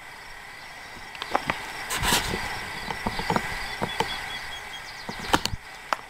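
Outdoor ambience with insects chirping and a faint steady high hum, broken by a handful of scattered knocks and thumps, the clearest about two seconds in and near the end.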